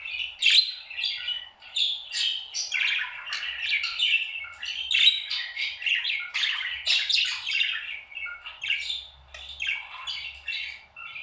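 Pet parrot chattering: a continuous stream of rapid chirps, squawks and warbles that stops abruptly near the end.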